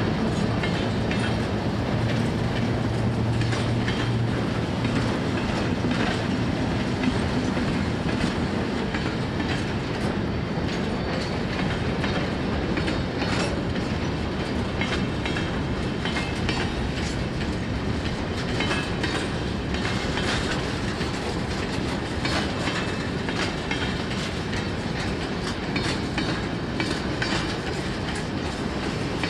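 Freight train wagons rolling past, wheels clicking steadily over the rail joints. A locomotive's engine hum sounds under it for the first several seconds, then fades.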